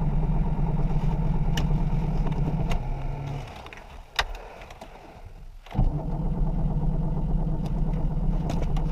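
AvtoVAZ (Lada) car engine running steadily, then dying away about three and a half seconds in. A click follows, and the engine catches and runs again about two seconds later. The owner puts the stalling down to fouled spark plugs.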